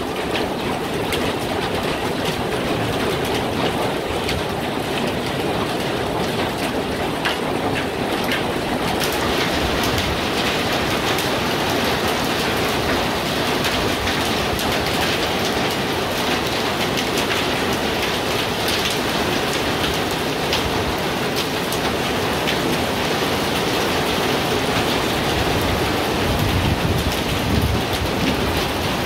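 Heavy rain falling steadily, as a dense even hiss that grows louder and brighter about nine seconds in.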